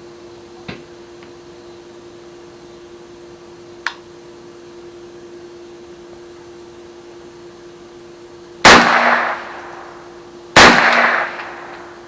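.22 rifle fired twice, about two seconds apart, each shot trailing off in a short echo.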